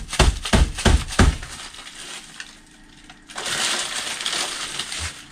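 A paper bag with a loaf of bread in it being scrunched and handled: about five sharp crunches in the first second and a half, then, after a short lull, a steady crinkling rustle and a small thump near the end.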